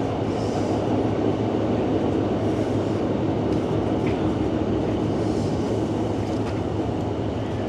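Passenger train running along the line, heard from inside the carriage: a steady rumble with a constant low hum.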